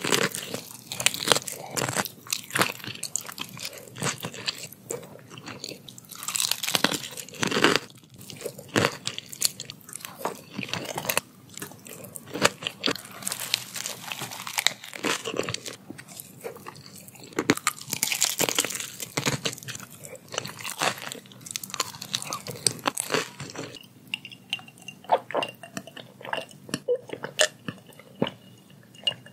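Close-miked crunching and chewing of crispy deep-fried fish coating and crisp lettuce leaves, in irregular loud bites. The last few seconds are quieter, with sparse small gulps from drinking out of a bottle.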